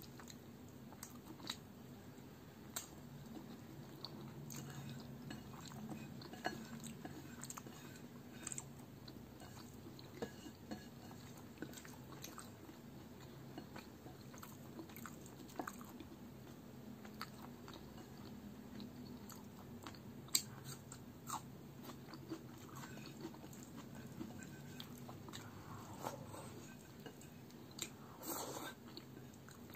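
Close-miked eating sounds: chewing a mouthful of rice and palak chicken, with scattered soft clicks and smacks, along with fingers mixing rice into the spinach gravy on the plate. Another mouthful goes in near the end.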